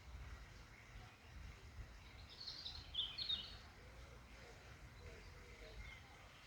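A songbird chirping: a short run of high chirps a little over two seconds in, over faint outdoor ambience with a low rumble.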